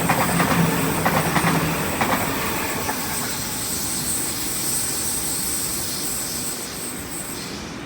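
A train passing on the rails: its wheels click rapidly over the rail joints for the first two seconds. A thin high-pitched whine carries on until near the end, and the sound slowly fades as the train moves away.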